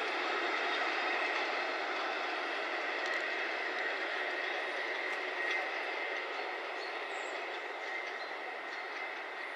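Train running along the line, its wheel-on-rail noise with a steady high ringing tone slowly fading as it draws away.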